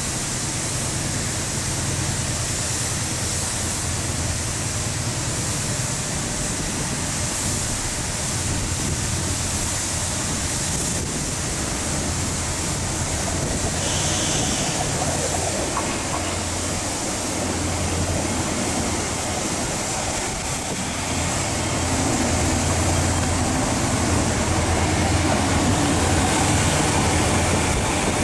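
Train running at a large railway station: a steady low rumble under a wide hiss, growing louder about 21 seconds in, with a brief high tone near the middle.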